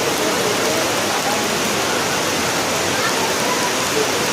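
Heavy rain falling steadily in an even, unbroken hiss, with faint voices underneath.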